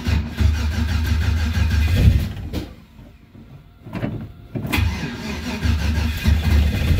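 Boosted LS V8 of a second-generation Camaro being cranked on the starter in two tries of about two seconds each, with a pause between, and not firing up: a cold start on E85 fuel, which is hard to light when cold.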